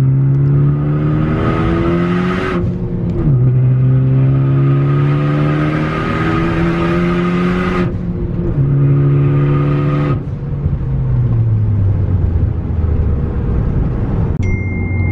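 Ford Focus ST's turbocharged 2.0-litre four-cylinder pulling hard at full throttle with a loud turbo hiss. Engine pitch climbs steadily, drops at upshifts about two and a half and eight seconds in, and climbs again each time. About ten seconds in the throttle closes and the engine winds down.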